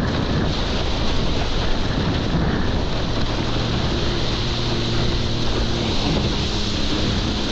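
Wind buffeting the microphone over rushing water and wake, with a jet ski's engine running underneath; a steady engine hum becomes clearer about halfway through.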